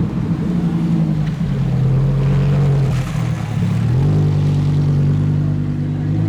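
Lamborghini engine pulling away at low revs with a deep steady drone; about three and a half seconds in the pitch dips briefly and then rises to a higher steady note, as at a gear change.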